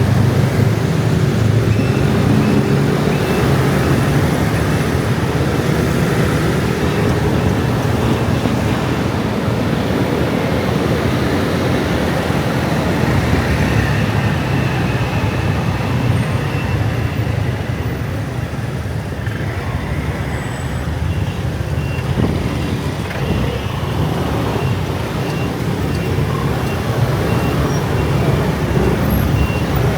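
Dense rush-hour traffic made up mostly of motor scooters, with many small engines running together in a continuous hum that eases off a little around the middle.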